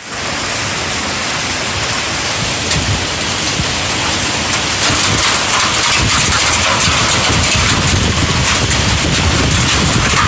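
Hail falling in strong wind: a dense steady hiss with many sharp clicks of hailstones striking. It grows heavier from about five seconds in.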